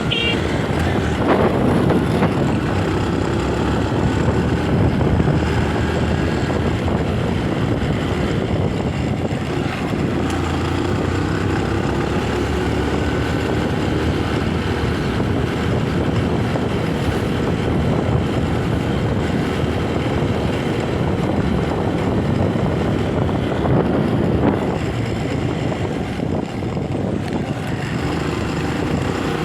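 Motorcycle engine running on the move, with wind and road noise; the engine note glides up and down with the throttle a couple of times, around a second in and again near the end.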